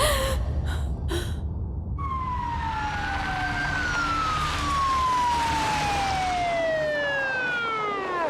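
An emergency-vehicle siren with a long, steadily falling pitch, starting about two seconds in and sliding down until the end, over a low rumble.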